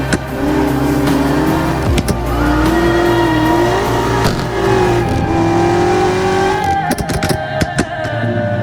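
BMW M5 engine revving, its note rising and falling over several seconds, with tyre squeal from hard driving and a burst of sharp clicks about seven seconds in.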